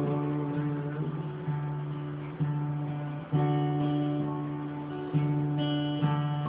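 Acoustic guitar strummed chords with no singing, an instrumental break in a folk song.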